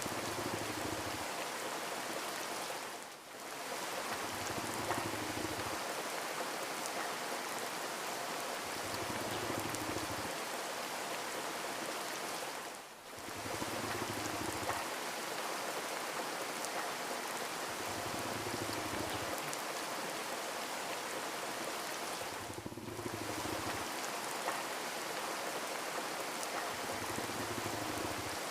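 Steady rain falling, an even hiss of many drops, briefly dipping about every ten seconds. Under it, a soft low pulse comes back roughly every four and a half seconds.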